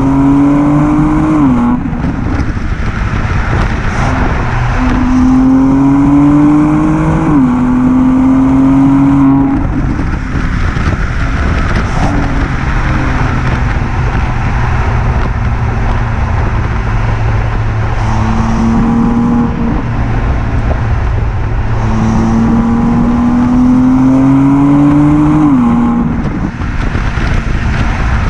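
BMW M2 Competition (F87) twin-turbo 3.0-litre straight-six on its stock exhaust with petrol particulate filter, accelerating hard several times. The engine note climbs through a gear and drops sharply at each upshift, with steadier running in between.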